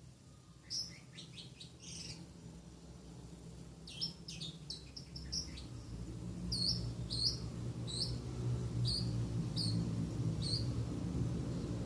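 Lovebird singing cendet-style phrases learned from a long-tailed shrike master recording: short, high chirps, scattered at first, then evenly repeated about twice a second from about halfway in, over a steady low hum.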